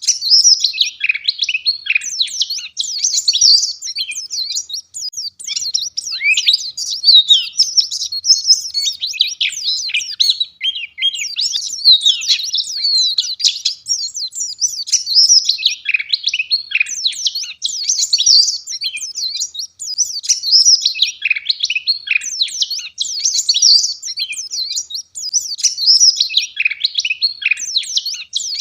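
White-eye (pleci) singing in full, vigorous song: a continuous, rapid, high twittering of dense chirps and short glides, in phrases that follow one another without a pause.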